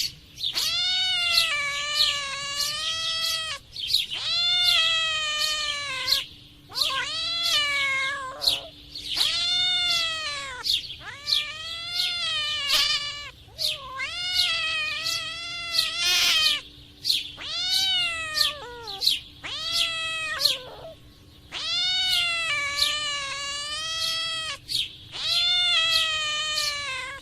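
Cats caterwauling during mating: about ten long, drawn-out yowls with short breaks between them. Each yowl rises and then falls in pitch.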